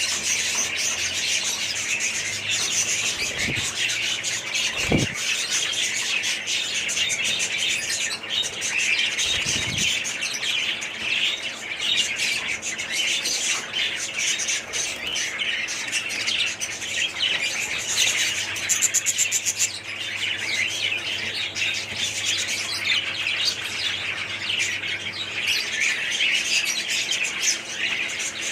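Many budgerigars chattering and chirping together, a continuous dense warble, with a few low knocks in the first ten seconds.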